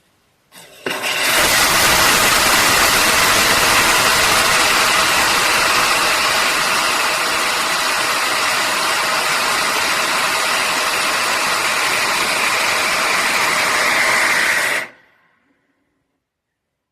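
Liquid-fuelled rocket engine test firing, heard from very close. A brief pop as it lights, then a steady, loud roar of about fourteen seconds that cuts off sharply at shutdown.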